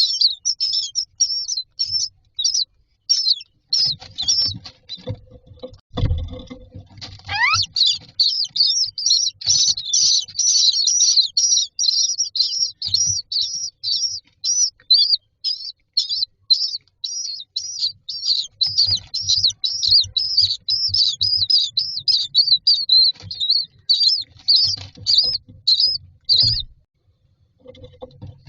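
Common myna chicks in a nest box giving rapid, repeated high begging calls for food, patchy at first and then an almost unbroken stream that cuts off suddenly near the end. A single thump sounds about six seconds in.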